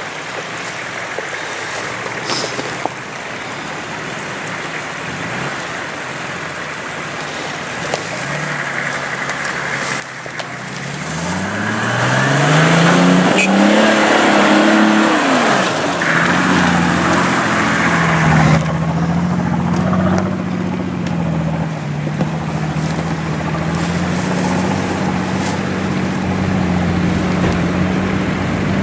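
4x4 off-road vehicle's engine running under load. About ten seconds in, the revs climb and hold high with a loud rushing noise on top, then drop back to a steady, slightly wavering engine note.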